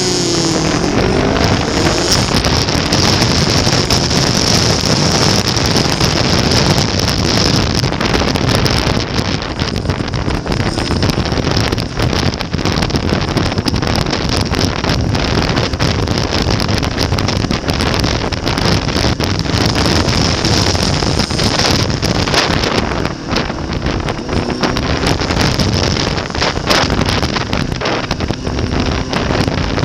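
Heavy wind rush buffeting the microphone at riding speed, covering a motorcycle engine that can be made out faintly, mostly in the second half.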